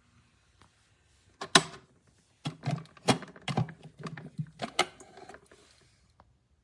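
A run of irregular clicks and knocks, like hard objects being handled, starting about one and a half seconds in with the loudest click and going on in a close cluster for about three seconds.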